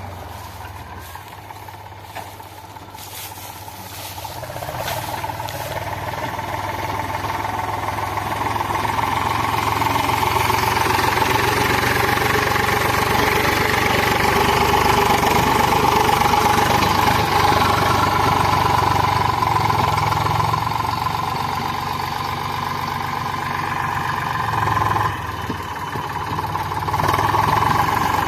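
Eicher 485 diesel tractor engine running hard, quieter for the first few seconds, then growing louder and staying steady, with a brief drop near the end.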